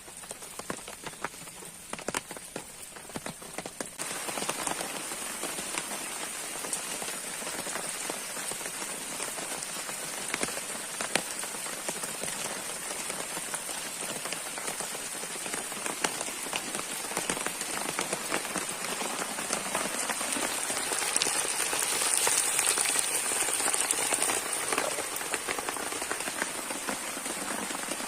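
Rain falling on a camp shelter: scattered drops at first, turning suddenly into steady rain about four seconds in, and heaviest a little past the middle.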